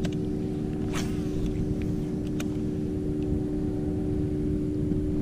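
A small motor running with a steady, even hum and a constant whine, with a couple of light knocks.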